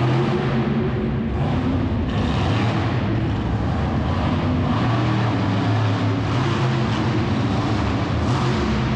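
Monster truck engine running loud and steady, its pitch shifting up and down a little with the throttle.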